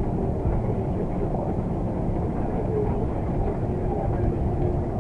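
Airbus A330-200 heard from inside the passenger cabin: a steady, deep rumble of engines and airflow, with a faint steady hum over it.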